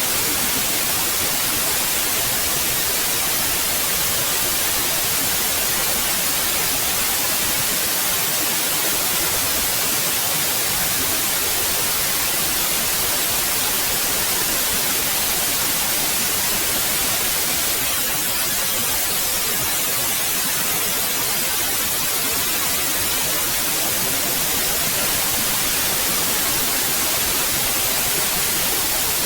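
Steady white noise: an even, unchanging hiss across all pitches, brightest in the highs.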